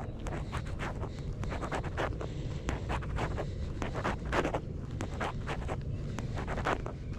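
Footsteps of a person walking on a path, a short scratchy step about twice a second, over a steady low rumble of wind on the microphone.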